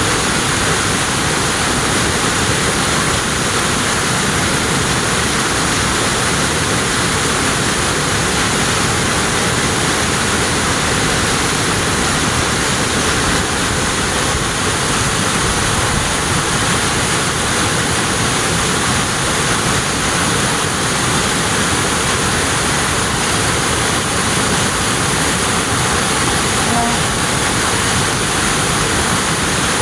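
Waterfall pouring down a mountainside: a steady, loud rush of falling water.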